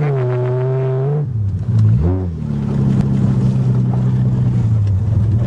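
1982 Toyota Cressida's engine revving under hard acceleration, held high for about a second, then dropping. It blips up and back down briefly about two seconds in, then runs steadily at a lower pitch.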